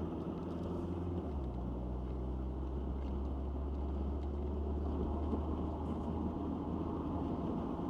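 Citroen XM heard from inside the cabin while driving: a steady low engine drone over road noise. The engine note drops a step about a second in.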